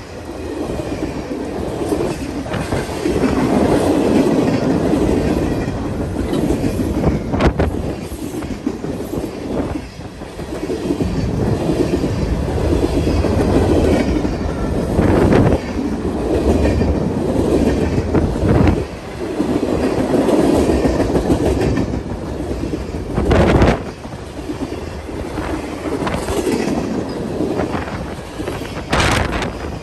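Long freight train rolling past: a steady rumble of passing cars, with wheels clicking over rail joints and a few sharp clanks.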